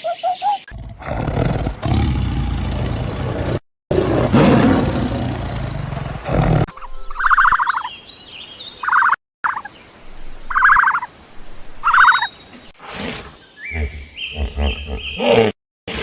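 Animal calls in several short clips cut together: two long, rough calls in the first half, then four short calls about a second and a half apart, then a run of quick stepped calls near the end.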